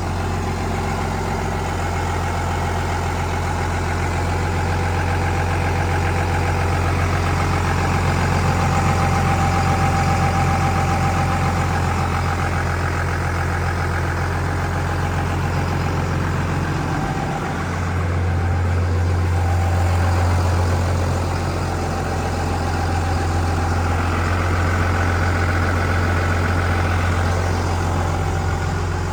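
Cummins 5.9 inline-six turbo-diesel idling steadily shortly after a cold start in freezing weather, the idle swelling and easing slightly a couple of times with a brief dip about two-thirds of the way through.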